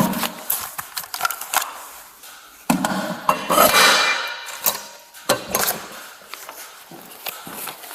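Irregular clicks, knocks and rattles of objects and gear being handled close to the microphone, with two louder stretches of rustling and clatter, at the start and about three seconds in.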